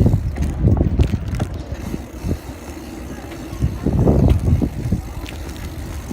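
Wind buffeting and rattling thumps picked up by a phone taped to a bicycle's handlebars while it is ridden, in uneven gusts that are strongest at the start and again about four seconds in.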